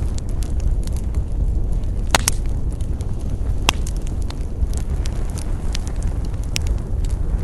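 Wood fire burning with a steady low rumble and many scattered crackles. The sharpest pops come as a quick double pop about two seconds in and a single pop a little later.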